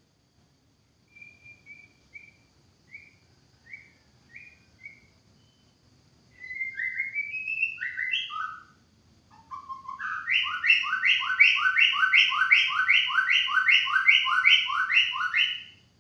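White-rumped shama singing: a few soft short whistles, then louder gliding phrases, then a fast run of repeated notes at about two or three a second that stops just before the end.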